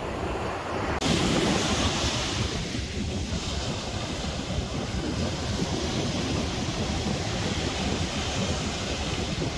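Sea waves washing, with wind buffeting the microphone; the rushing grows louder and brighter quite suddenly about a second in.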